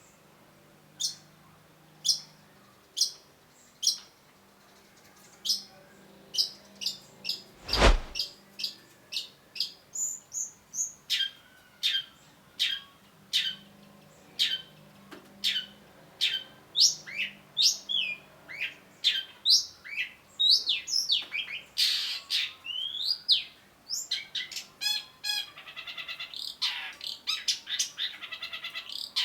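Long-tailed shrike calling: sharp, down-slurred high notes, about one a second at first, then coming faster and breaking into a rapid chattering trill near the end. A single low thump about eight seconds in.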